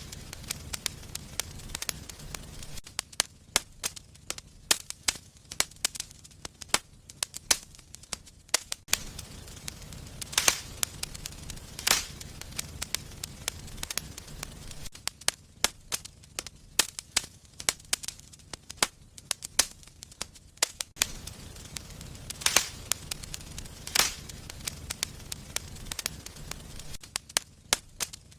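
Wood fire crackling in a fireplace: a steady run of small snaps with a handful of louder, sharper pops over a faint low rumble of the flames.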